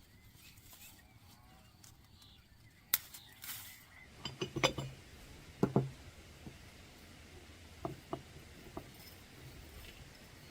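Cookware and utensils being handled: a sharp click, then a cluster of clinks and knocks with short ringing tones, and a few lighter clinks later.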